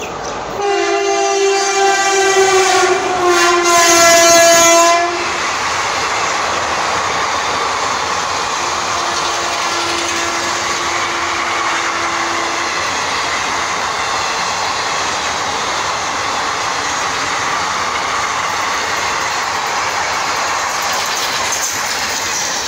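Electric locomotive horn sounding for about four and a half seconds, its pitch dropping a little about three seconds in as the locomotive passes. The express runs through the station without stopping, followed by the steady, even rush of its coaches going past at speed.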